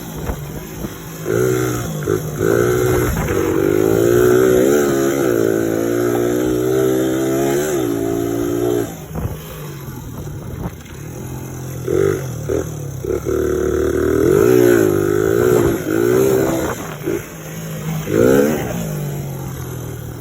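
Suzuki DR100's single-cylinder four-stroke engine under way, the revs climbing and falling again and again as the bike accelerates and eases off, with a short burst of revs near the end.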